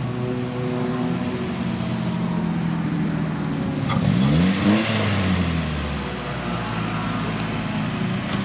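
Compact sedan's engine running as the car drives, revving up sharply about four seconds in and then dropping back to a steady run.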